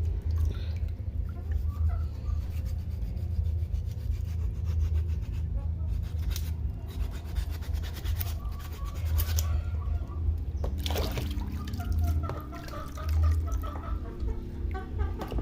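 Knife cutting and scraping through raw chicken, with rubbing and handling of the pieces and a few sharp clicks. A steady low hum runs underneath.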